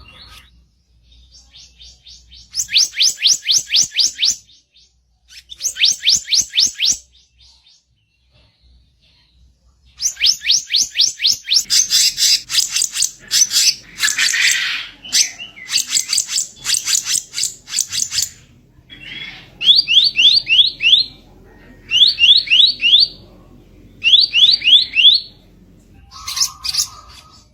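Kicap ranting songbird singing its harsh, rasping song: rapid runs of high, evenly repeated notes in bouts of a second or more, with pauses between. The longest run lasts several seconds in the middle, and near the end come shorter phrases of quick rising notes.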